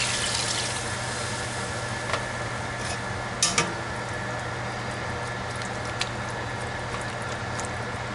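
Chicken and paprika-onion base sizzling and bubbling in a pan as chicken stock deglazes it, a steady hiss with a low hum underneath and a few light clicks.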